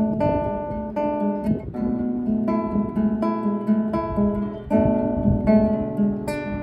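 Acoustic guitar playing, notes plucked and chords strummed in a slow, even rhythm.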